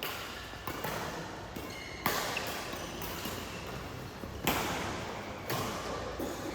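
Badminton rally: sharp cracks of rackets striking a shuttlecock, about a second apart, with a longer pause of about two seconds in the middle, over the hum of a large hall.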